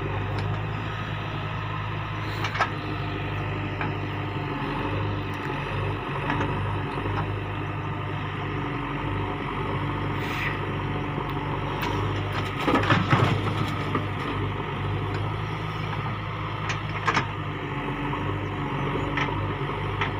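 Heavy diesel engine of earth-moving machinery running steadily under work, with a few scraping, crunching knocks of soil being handled; the loudest comes about 13 seconds in.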